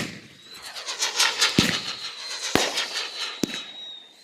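Backyard fireworks: a loud bang at the start, then dense crackling with three sharper bangs spread through it, over a thin, high, steady tone.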